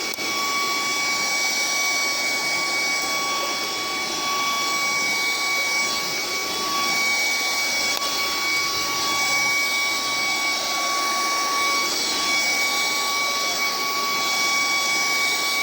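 Vacuum cleaner running steadily: a continuous rush of air with a steady high whine from the motor.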